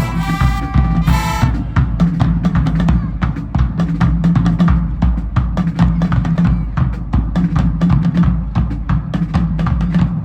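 Marching band playing: a brass chord cuts off about a second and a half in, and then the drums alone carry a fast, driving beat of snare and bass drum strikes over a low bass line.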